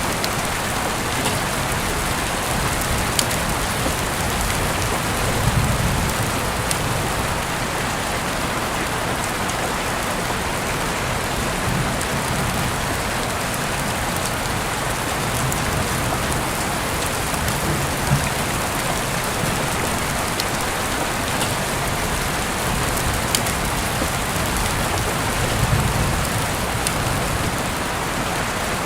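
Heavy rain falling steadily through an open window, a dense even hiss with sharp individual drops ticking through it. A brief low rumble swells up about six seconds in and again near the end.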